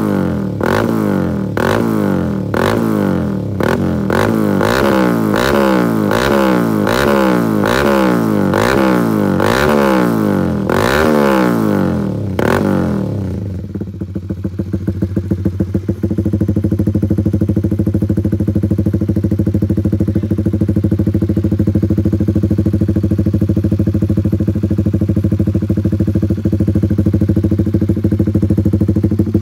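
Honda CBR150R single-cylinder engine running through a CLD Monster aftermarket exhaust with the dB killer removed. It is revved in repeated quick throttle blips, a little more than one a second, for about 13 seconds, then drops back and settles into a steady idle.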